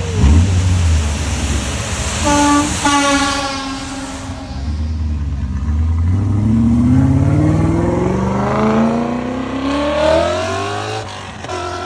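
A car's engine revs up and accelerates hard, its pitch climbing steadily for several seconds. A horn sounds briefly about two seconds in and again near the end.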